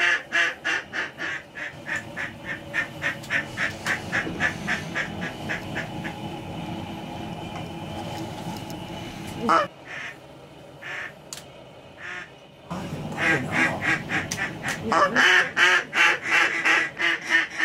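Duck calls blown in rapid runs of quacks, about four a second, with a lull and one rising call in between: hunters calling to mallards working in.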